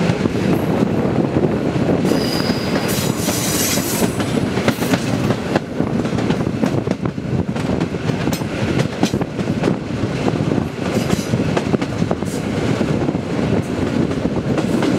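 Passenger train carriage rolling out of a station, heard from aboard: a steady rumble of wheels on rails with frequent clicks over rail joints and points, and a brief high wheel squeal about two to four seconds in.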